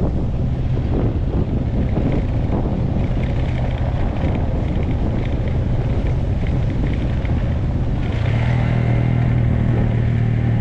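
Motorcycle engine running under way, with wind buffeting the microphone. The engine's low hum gets stronger about eight seconds in.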